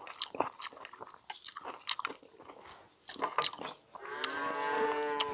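Close eating noises, small sharp clicks and chewing, and then, about four seconds in, a cow mooing in one long call.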